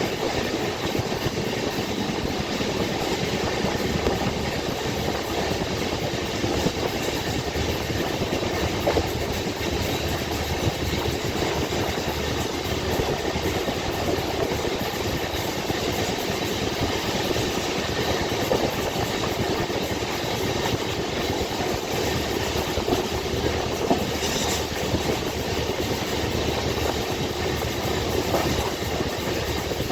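Passenger train running, heard from inside the coach: a steady rumble of wheels on rails with occasional faint clicks.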